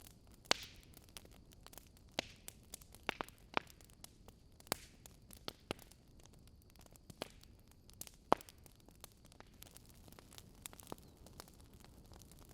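Wood fire crackling: irregular sharp pops and snaps from burning logs over a faint steady hiss, with the loudest pops about half a second in and again about two-thirds of the way through.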